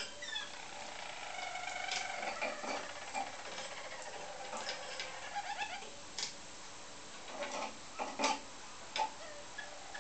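Roller canaries singing: continuous rolling trills and runs of repeated notes, broken by scattered sharp clicks.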